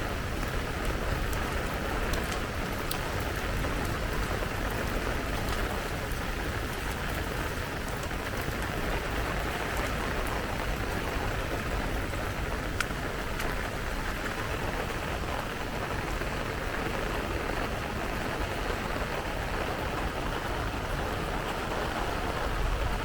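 Steady rain falling, an even dense patter with a low rumble underneath.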